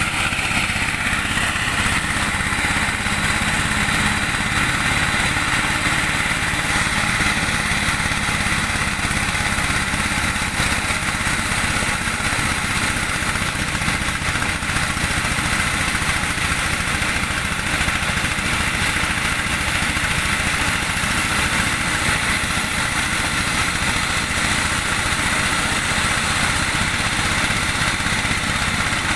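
Engine-driven corn sheller running steadily, its motor and threshing drum going at an even pace.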